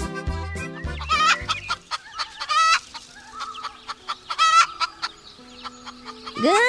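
Children's music with a low beat fades out in the first two seconds, then a hen clucks in several short calls, spaced about a second apart.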